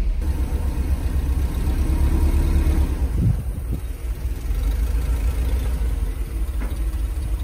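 Mercedes-Benz SL500's 5.0-litre V8 running while the car drives, heard from inside the cabin. It is running poorly, like garbage, which the owner takes for the engine not getting enough fuel.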